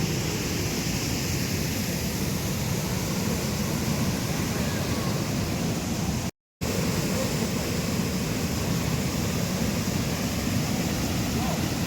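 Floodwater rushing steadily through a tank's opened sluice gates, a constant even rush of water. The sound cuts out completely for a moment about six seconds in, then carries on unchanged.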